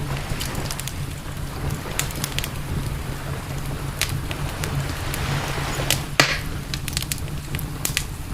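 Campfire crackling, with frequent sharp pops and one louder pop about six seconds in, over a steady low rumble.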